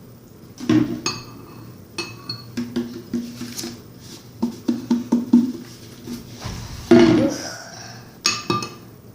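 A big spoon stirring arrowroot and water into oobleck in a bowl, knocking and clinking against the bowl in irregular strokes, each clink ringing briefly. The loudest knocks come about a second in and again near seven seconds in.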